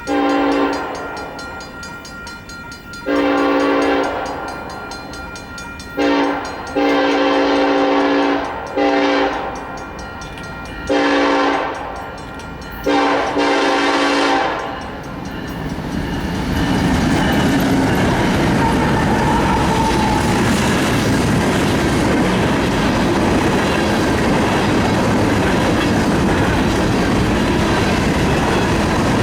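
Union Pacific train's air horn sounding a series of long and short blasts, about six in all, each a chord of several pitches. The horn falls silent about halfway through, and the train then runs past with a loud, steady rumble and rail clatter.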